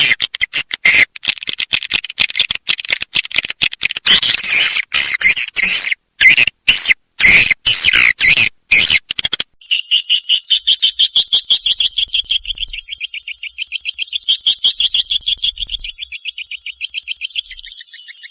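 Recorded edible-nest swiftlet calls of the kind played to lure swiftlets into a swiftlet house. Dense, high twittering chatter gives way about nine and a half seconds in to a long, rapid, evenly pulsed clicking trill.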